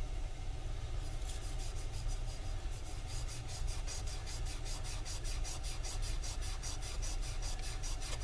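Copper refrigerant tubing being cleaned with an abrasive by hand to prepare it for brazing: rapid, even scrubbing strokes, about five or six a second, starting about a second in, over a steady low hum.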